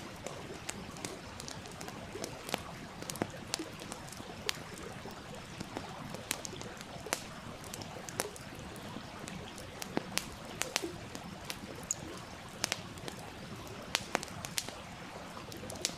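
Wood campfire crackling, with irregular sharp pops and snaps over the steady murmur of a flowing stream.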